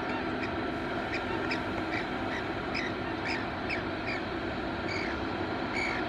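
Short, sharp bird calls repeated irregularly, roughly two a second, each a brief slightly falling note, over a steady background rumble.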